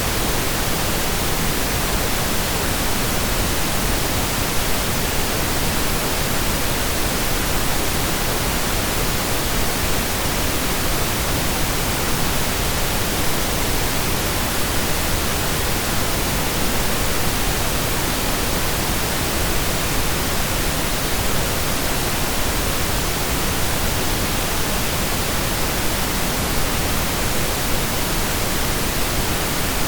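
Synthesized pink noise: a steady, even hiss with equal energy per octave, like steady rain or a distant waterfall.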